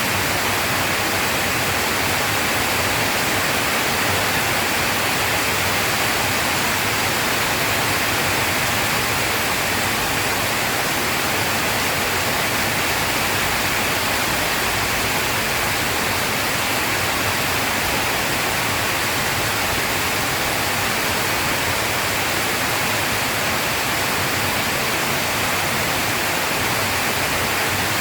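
Rain falling steadily, an even unbroken hiss with no thunder.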